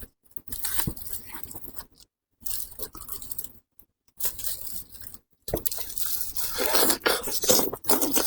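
Close-miked eating sounds: biting, tearing and chewing meat from a braised sheep's head, with crunching. It comes in short takes cut off by stretches of dead silence, then runs denser and louder over the last three seconds.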